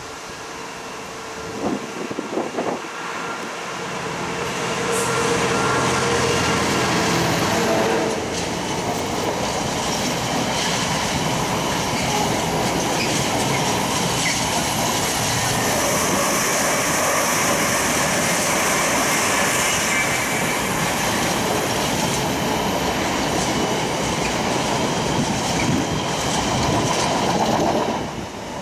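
A train passing on the East Coast Main Line. It grows louder over the first few seconds, with a pitched running note at first, then a steady rush of wheels on rails for about twenty seconds. The sound drops away sharply near the end.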